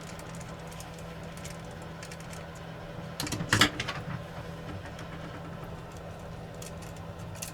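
Steady low hum of bench equipment, with a brief cluster of small clicks and taps from parts or a tool being handled about three and a half seconds in, and one more click near the end.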